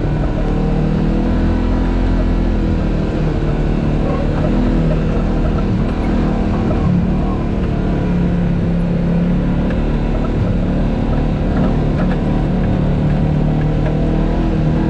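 Off-road vehicle engine running under load, its pitch rising and falling as it climbs a rock obstacle, with a steady low rumble underneath.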